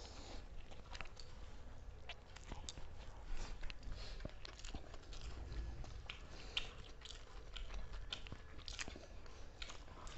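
People chewing and biting food quickly during a speed-eating challenge, with scattered small crunches and clicks.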